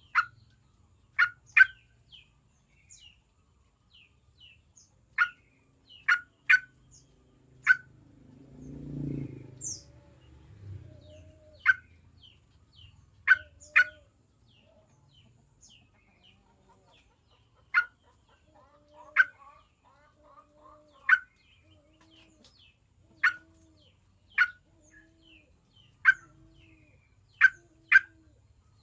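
Yellow-vented bulbul giving short, sharp, loud chirps at irregular intervals, mostly one every second or two. About a third of the way in there is a brief low sound, and in the last third a low note repeats about once a second underneath.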